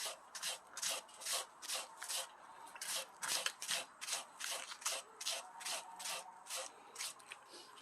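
Green onion stalks being shredded lengthwise with a blade, in rapid repeated scraping strokes, about two or three a second.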